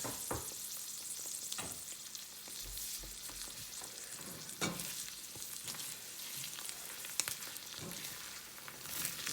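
Creamed spinach and halved jumbo shrimp sizzling steadily in a frying pan, with a few short knocks and scrapes scattered through as the shrimp go in and are moved about.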